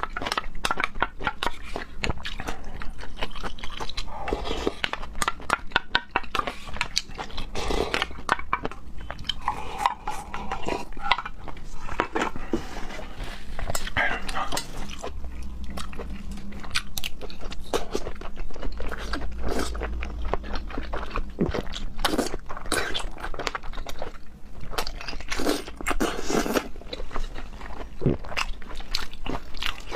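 Close-miked eating: continuous chewing and biting with many rapid wet mouth clicks and crunches.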